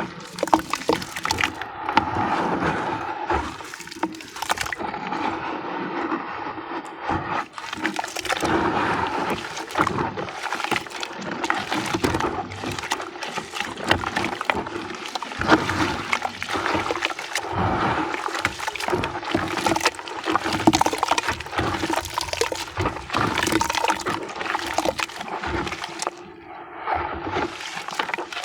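Sand-cement discs crumbling in water: dense, continuous crackling with many small wet clicks as the pieces break down into paste.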